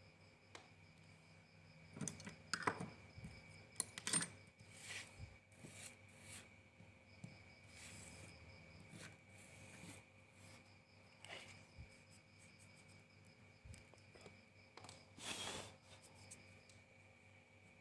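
Scattered sharp clicks and short scrapes of small parts being handled during a Zippo lighter insert repair, over faint crickets chirping.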